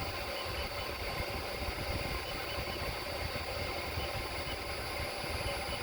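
A handheld laser welding machine running idle, with a steady hum and a thin, constant high whine, while the laser point is being lined up on the weld before welding.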